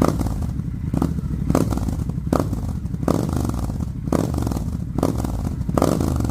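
Triumph Scrambler 1200 X's parallel-twin engine running through a Zard slip-on exhaust, idling with short surges about once a second.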